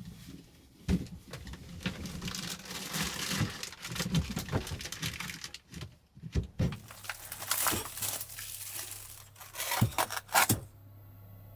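Crinkling, rustling and tearing, like packaging being handled, with scattered sharp clicks, a loud knock about a second in and two more loud knocks near the end.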